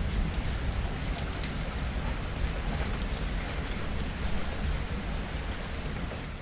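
Steady rain falling, a dense even hiss of drops, with a deep low rumble underneath.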